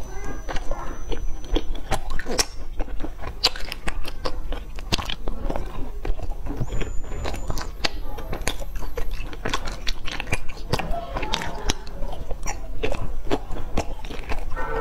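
Close-miked chewing and crunching of a sesame-coated glazed pastry, a dense run of crisp crackles and clicks from the mouth.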